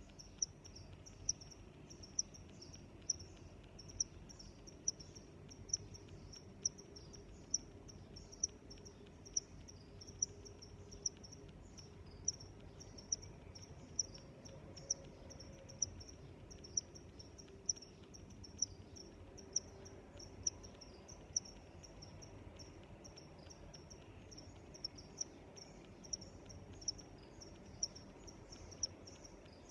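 Crickets chirping in a steady high-pitched trill. One loud chirp stands out about once a second over fainter chirping, with a faint low background hum.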